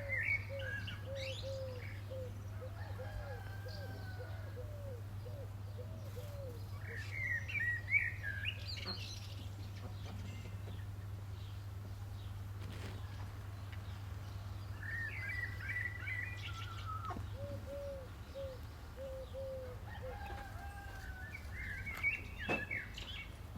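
Songbirds singing short chirping phrases every several seconds, and hens giving runs of low repeated clucks. A steady low hum runs underneath and cuts off about three-quarters of the way through.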